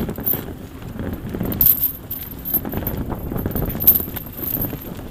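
Metal clinking and rattling in irregular short clicks over a steady low rumble.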